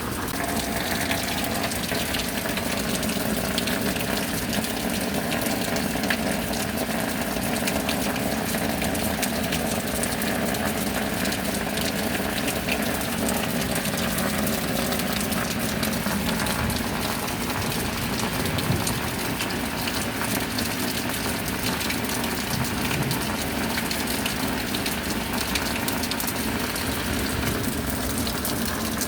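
Steady heavy rain, a dense, even rush of falling and running water with no let-up.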